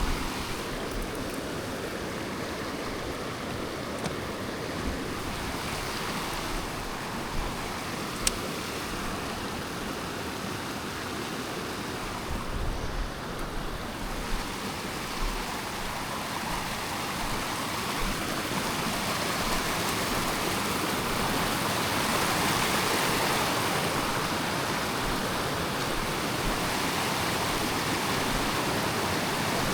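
Running water of a stream or small cascade rushing steadily, growing a little louder about two-thirds of the way through.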